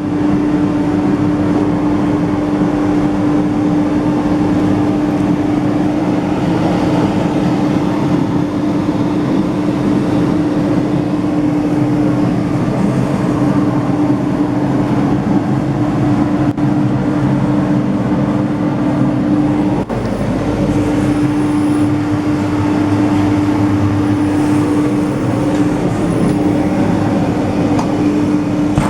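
Segmented pad sanding machine running steadily: a loud, even mechanical noise with a steady hum through it, briefly dipping about two-thirds of the way through.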